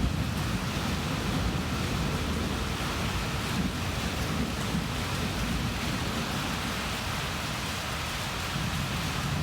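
Rain falling steadily during a thunderstorm, with a low rumble of thunder underneath.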